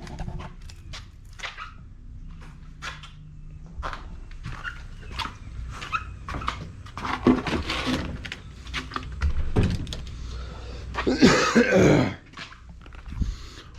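Dogs barking in short bursts, the loudest barks coming about halfway through and near the end.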